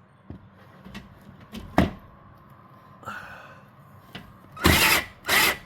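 Cordless drill loosening a garage door track bracket bolt: a couple of sharp knocks, then two short bursts of the drill about half a second apart near the end.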